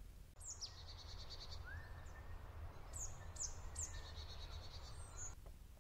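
Faint outdoor ambience: small birds chirping and trilling over a low steady hum, with one short rising call about two seconds in.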